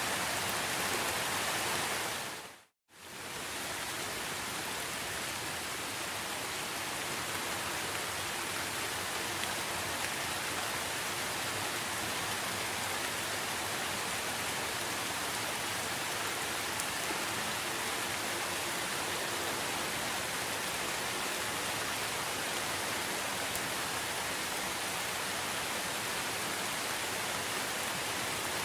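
Steady rain falling, an even hiss with no distinct drops standing out. About three seconds in it fades out to silence for a moment, then comes straight back.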